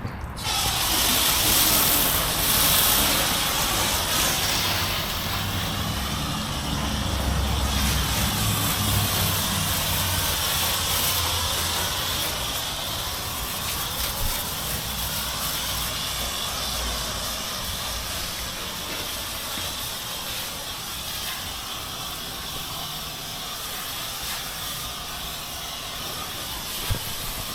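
Water spraying steadily with a hiss, as when a boat is washed down with a hose, loudest in the first few seconds, with a low hum underneath for about the first ten seconds.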